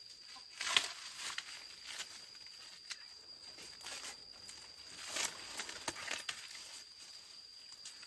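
Irregular rustling and crackling of dry corn leaves and husks being handled, in short bursts, over a faint steady high-pitched tone.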